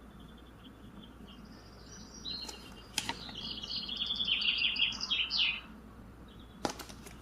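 A small bird singing, a fast run of high chirping notes lasting about three seconds in the middle, with fainter chirps before it. Two sharp clicks, one about three seconds in and one near the end.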